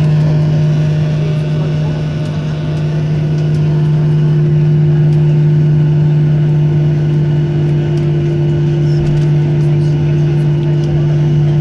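Steady low hum and rumble inside the cabin of a Ryanair Boeing 737 just after landing, with two strong unchanging low tones and a slight dip in level about two seconds in.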